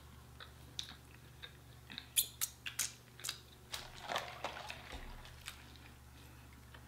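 Close-miked eating sounds of chicken wings being bitten and chewed: scattered short wet smacks and crunchy clicks, thickest between about two and three and a half seconds in.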